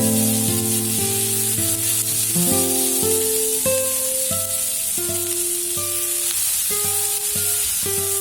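Vegetables frying in hot oil in a pan, sizzling steadily, under plucked acoustic-guitar background music.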